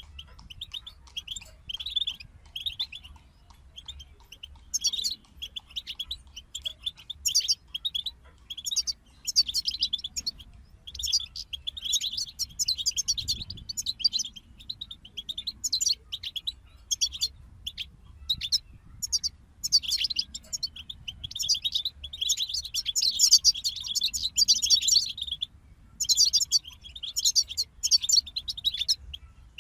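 European goldfinches singing: fast, high-pitched twittering phrases broken by short pauses.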